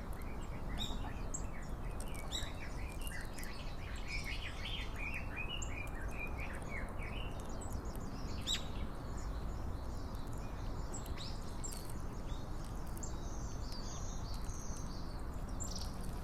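Several small birds chirping, many short calls overlapping, thickest in the first half, over steady low background noise.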